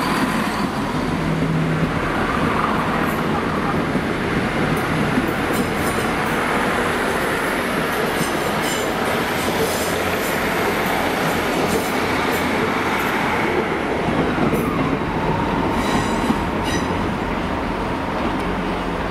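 Diesel multiple-unit trains, among them a Class 170 Turbostar, running past close to the platform: a loud, steady noise of engines and wheels on rails, with high-pitched wheel squeal on the curved track and points.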